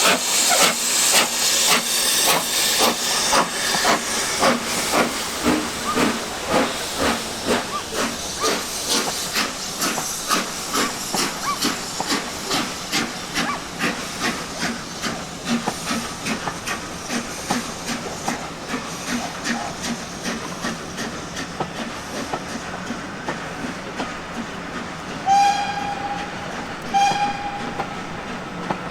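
Steam locomotive working with a steady rhythmic exhaust beat and hiss, gradually fading. Two short blasts on its whistle come near the end.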